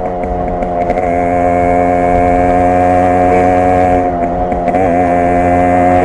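Yamaha RX 100's two-stroke single-cylinder engine running under way, the exhaust holding a steady note. The note wavers briefly at the start and again about four seconds in.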